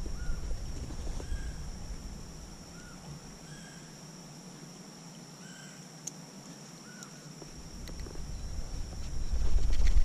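A bird calling about six times in short chirps, roughly one every second or so, over a steady high-pitched drone. A low rumble fades out early on and returns near the end.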